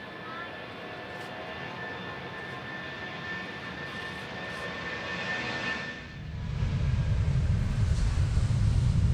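Boeing 757-300 jet engines running with a steady high whine that grows louder. About six seconds in, the sound changes abruptly to a loud low rumble.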